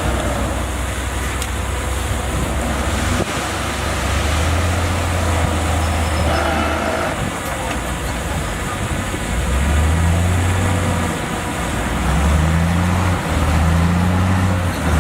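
Bulldozer's diesel engine running, its deep drone swelling and easing several times as the machine works under changing load.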